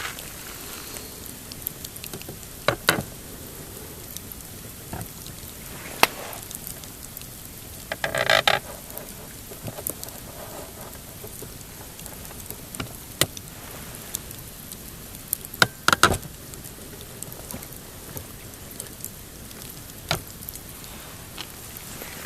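Pine campfire burning with a low steady crackle and sharp pops every few seconds, and a short burst of rapid crackling about eight seconds in.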